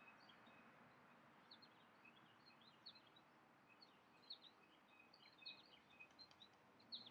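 Faint, quick high chirps of small birds, scattered throughout and busier in the second half, over a steady low outdoor hiss.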